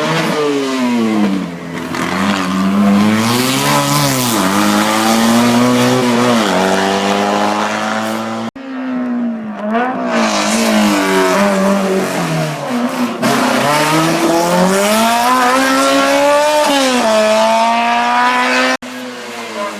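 Hillclimb race car engines revving hard up through the gears, pitch climbing and dropping at each shift, with some tyre squeal. Two cars run one after the other, the sound cutting off abruptly about eight seconds in and again near the end.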